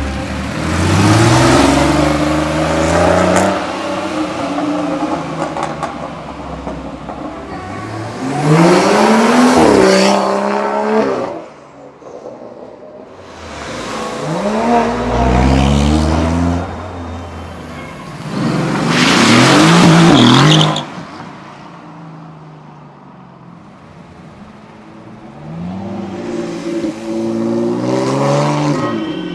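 Sports cars, Porsche 911s among them, accelerating away one after another: about five in turn, each engine's note rising as it revs up and then fading, with quieter gaps between.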